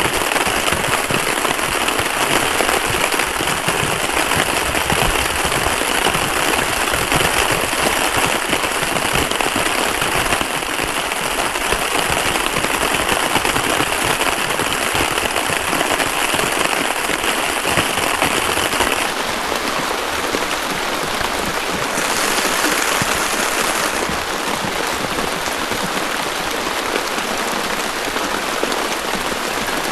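Heavy rain falling steadily, a dense hiss of drops with no let-up. Its tone changes abruptly a few times.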